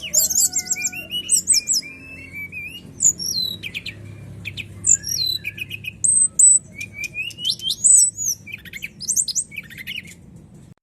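Brown-chested jungle flycatcher (sikatan rimba dada coklat) singing a varied, continuous song of quick whistles, slurred notes and rapid trills, over a faint low hum.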